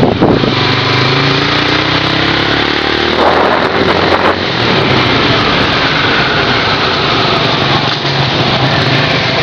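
Motorcycle engine running while riding in traffic, its pitch rising as it speeds up over the first few seconds. A short rush of noise comes about three to four seconds in.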